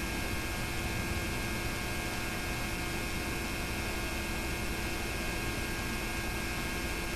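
Steady electrical hum with several constant tones over an even hiss: the background noise of a home-movie transfer's audio track, with no other sound on it.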